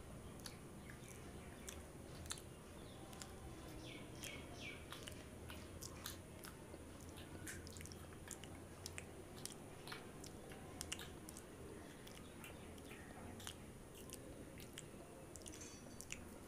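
A person biting and chewing a soft stuffed bread bun close to the microphone, with many small wet clicks and smacks of the mouth.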